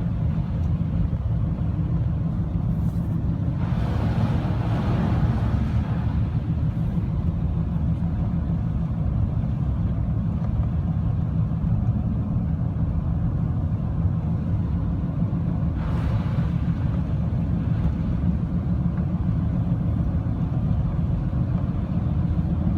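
Steady low rumble of a car's engine and road noise, with a swell of rushing noise about four to six seconds in and a briefer one near sixteen seconds.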